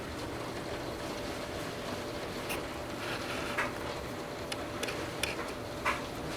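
Torrential rain pouring down as a steady hiss, with scattered sharp drips and splashes of water spilling from overwhelmed gutters, a few of them in the second half.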